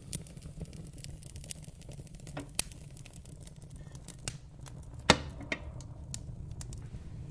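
Fire crackling in a fireplace: a steady low rumble of flames with many small irregular pops and clicks, two sharper pops, the louder about five seconds in.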